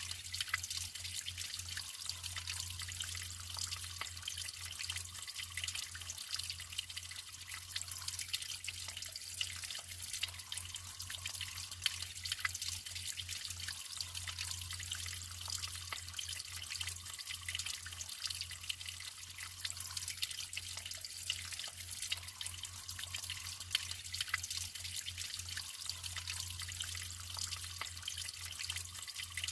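Natural running water trickling and splashing, with many small drips throughout, over a steady low hum.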